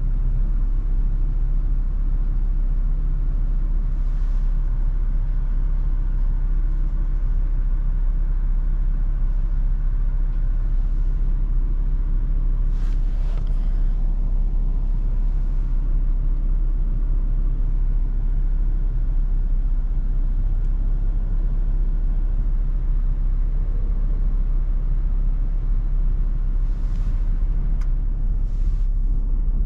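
Steady low rumble of a Toyota FJ Cruiser driving, with road and wind noise, and a few brief hissing swells, the loudest about halfway through.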